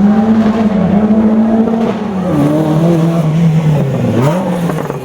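Classic rally car's engine running hard as it drives past. Its note holds steady, drops a step about two seconds in, then dips and climbs again near the end.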